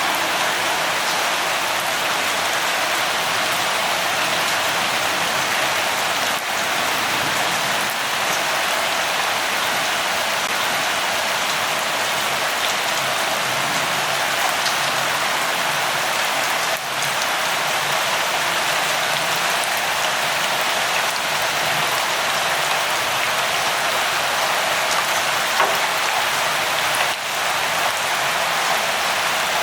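Steady light rain falling, an even hiss of drops with a few faint ticks.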